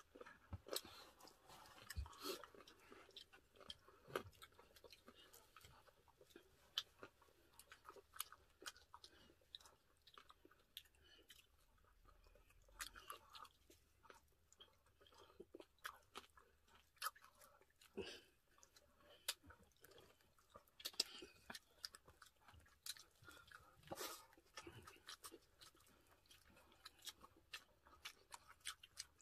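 Faint close-up chewing and crunching of food, with many small scattered clicks, while a roast chicken is pulled apart by hand.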